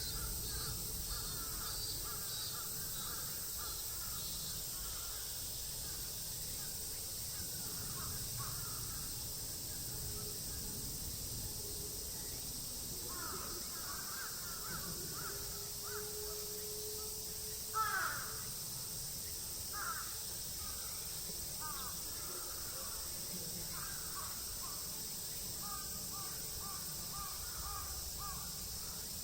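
Bird calls: short calls repeated at intervals, the loudest about 18 seconds in, over a steady background hum.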